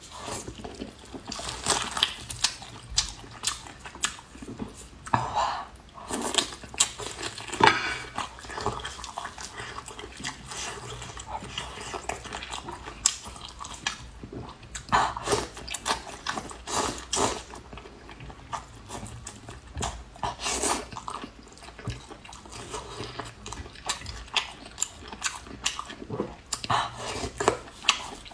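Close-up eating sounds: biting into and chewing pork knuckle, with irregular smacks and clicks.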